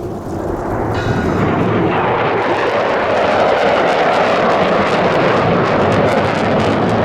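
Military jet aircraft engine noise that swells over the first two or three seconds, then holds at a steady loud level.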